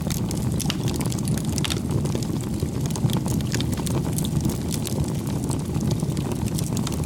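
Wood fire burning: a steady low rush of flame with frequent sharp crackles and pops from the burning wood.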